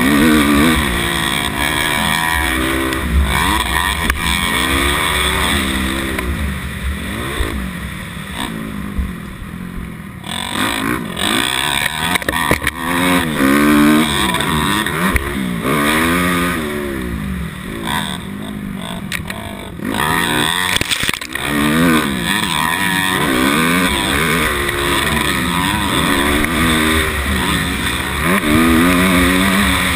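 250cc motocross dirt bike engine being ridden hard, its pitch rising under throttle and dropping back again and again as the rider works through the gears.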